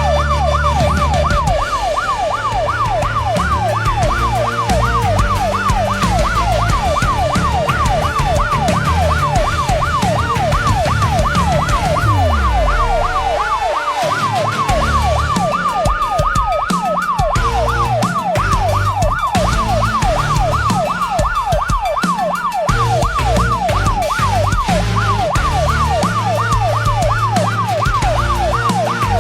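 Emergency vehicle sirens sounding together. One is a rapid yelp, rising and falling several times a second; the other is a slower wail that climbs and falls over several seconds. A low rumble runs beneath them.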